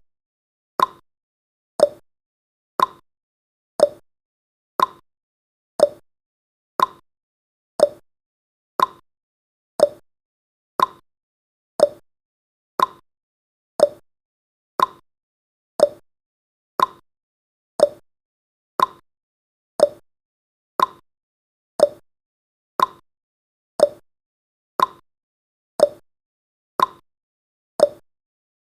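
Countdown timer's ticking sound effect: a short, sharp tick once every second, evenly spaced and unchanging.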